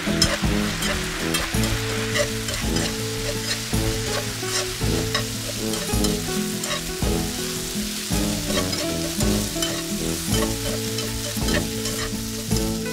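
Fried chicken feet being stirred and tossed with chopsticks in a sizzling fish-sauce and garlic glaze in a stainless steel pan. The sauce sizzles under many quick clicks and scrapes of the chopsticks and pieces against the pan, with background music underneath.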